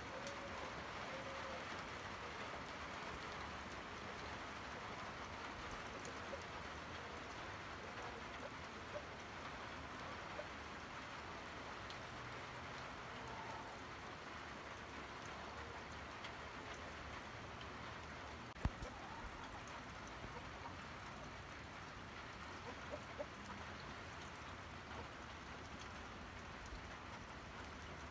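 Steady rain falling, an even hiss, with a few sharp taps scattered through it, the loudest about two-thirds of the way in.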